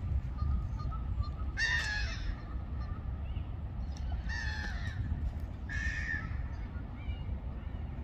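A bird giving three harsh, rasping calls, each about half a second long and a second or more apart, over a steady low rumble.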